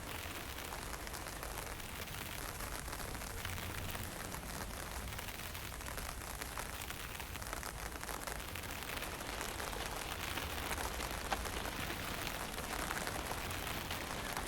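Steady hiss of light rain and drizzle, with wind giving a low rumble underneath and fine scattered drop ticks.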